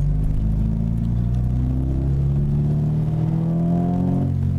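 Acura RSX's 2.0-litre four-cylinder engine pulling in gear, heard from inside the cabin, its pitch rising steadily as the revs climb. Near the end the revs fall away suddenly on the upshift, dropping quickly because a lightweight flywheel is fitted.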